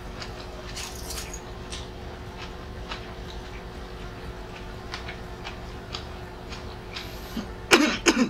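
Close-miked chewing: faint wet clicks and smacks of a mouth working food. Near the end come a few loud, sudden mouth or throat sounds.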